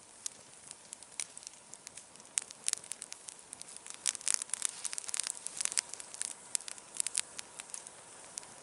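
Campfire crackling: irregular sharp pops and snaps over a faint hiss, busiest about halfway through.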